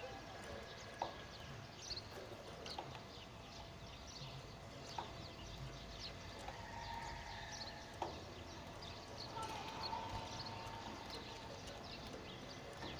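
Small birds chirping in short, high calls, with a few sharp clicks and two brief held whistles.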